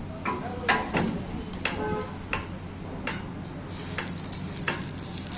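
Arc welding paused: a series of separate metal taps and clanks on steel, one ringing briefly about two seconds in, over a steady low hum.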